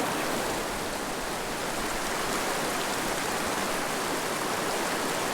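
Mountain river rushing over rocks: a steady, even wash of flowing water.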